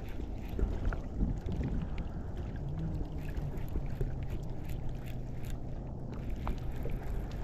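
Wind buffeting the microphone on open water, a steady low rumble with scattered small clicks and knocks. A low steady hum joins about a third of the way through and carries on.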